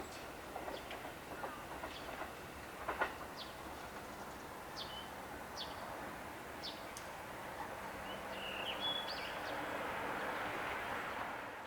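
Electric commuter train running on the line: a faint steady rumbling hiss that grows louder near the end, with a few sharp clicks in the first few seconds. Small birds chirp several times in the middle.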